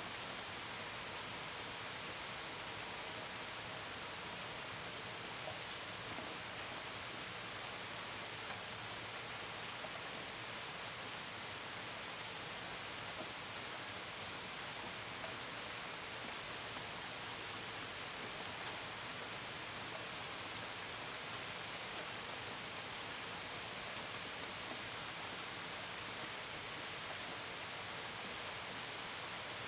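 Steady rain falling, a constant hiss with drops pattering on surfaces, and crickets chirping in short, high-pitched chirps throughout.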